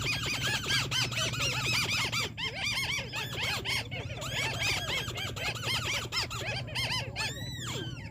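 White-browed crakes calling: a dense chorus of short, squeaky arched notes from several birds at once, overlapping at different pitches, over a steady low hum. A couple of larger, drawn-out arching calls stand out near the end.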